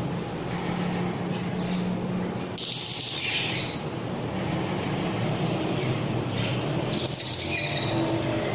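Small pet parrots calling: a harsh, high call lasting about a second a few seconds in, then several shorter high calls near the end, over a steady low hum.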